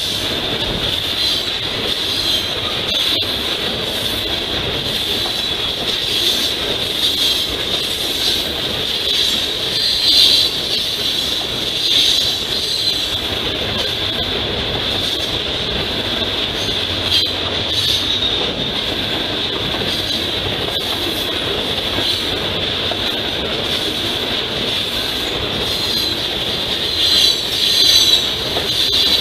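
CSX coal train's steel freight cars rolling past at close range, the wheels squealing steadily at a high pitch, flange squeal from the curved track, over a continuous rumble of wheels on rail. A few sharp clicks and swells of louder squeal come and go.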